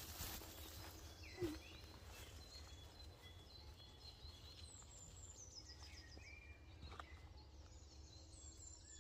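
Faint woodland ambience: small birds chirping and singing in short high phrases over a low steady rumble, with a single soft knock about a second and a half in.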